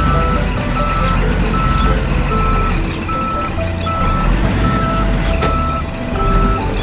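Reversing alarm beeping in an even rhythm, one short steady tone about every three-quarters of a second, over background music.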